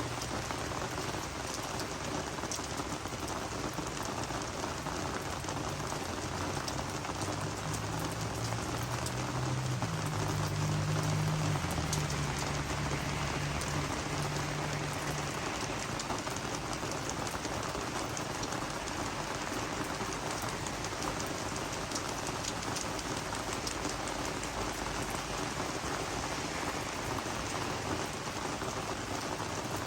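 Steady rain falling on garden plants, with many individual drops ticking on leaves. A faint low drone swells and fades about a quarter of the way through.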